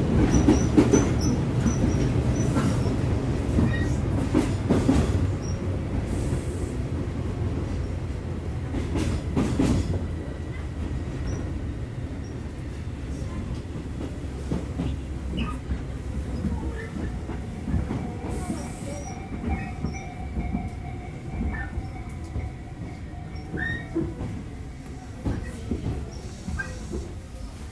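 Tobu 8000-series commuter train heard from inside the car: low rumble of the running gear and rail clicks, growing steadily quieter as the train slows. From about two-thirds of the way in, a faint steady high squeal joins in, typical of brakes or wheels as the train comes into a station.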